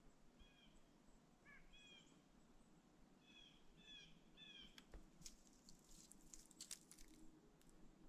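Very quiet outdoor stillness in which a bird gives short, falling call notes, several in quick pairs, through the first half or so. A run of faint sharp clicks and crackles follows in the second half.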